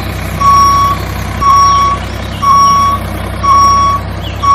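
Vehicle reversing alarm beeping about once a second, each beep a steady high tone, over a steady low engine hum.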